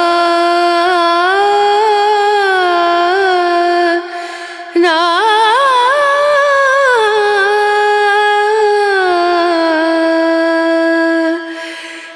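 Background music: a solo voice singing long, ornamented held notes in two phrases, with a short break about four seconds in.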